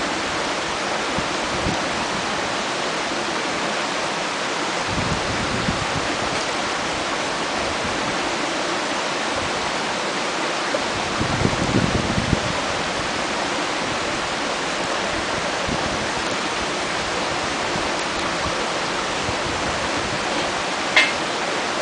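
Mountain stream rushing steadily through a gorge, a constant even wash of water, with a brief low rumble about eleven to twelve seconds in.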